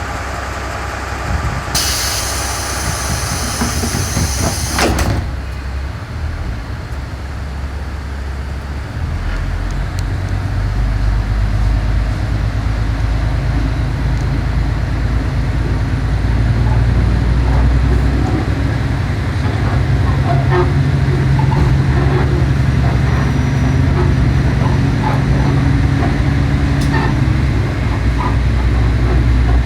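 KiHa 37 diesel railcar pulling away: a burst of compressed-air hissing for about three seconds, then the diesel engine's low rumble building as the train accelerates, with wheels clicking over the rails.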